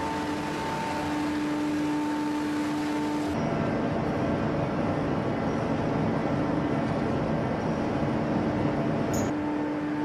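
Forging shop machinery running with a steady droning hum. About three seconds in, a louder, rough mechanical noise covers the hum for about six seconds, then stops with a short click and the hum returns.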